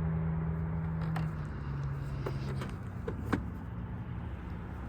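A steady low hum that drops in level about a second in, with a few light clicks.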